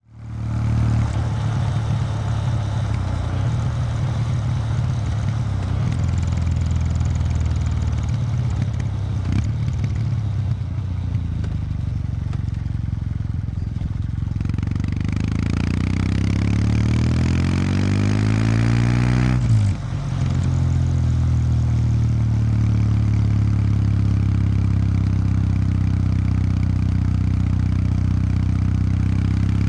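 2019 Kawasaki W800 Street's air-cooled parallel-twin running through its stock exhaust while riding. The sound fades in, holds a steady low beat, then rises in pitch as the bike accelerates, drops sharply at a gear change about two-thirds of the way in, and settles back to a steady run.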